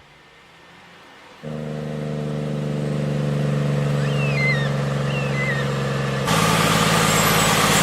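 A large vehicle engine starts sounding about a second and a half in and runs with a steady, low hum that grows slowly louder. Two short, high chirps come in the middle. Near the end the sound steps up suddenly to a louder, rougher engine noise.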